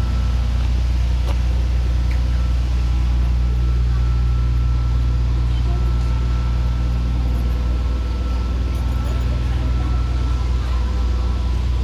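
Steady low rumble of motor traffic, with a faint constant high-pitched tone over it.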